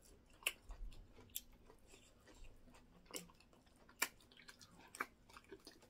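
Quiet mouth sounds of eating soft semolina fufu with egusi soup: wet chewing with scattered lip smacks and clicks, about one a second.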